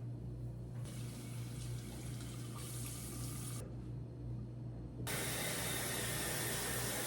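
Water running, in two spells: a softer one about a second in that stops past the halfway point, then a louder one from about five seconds in, over a steady low hum.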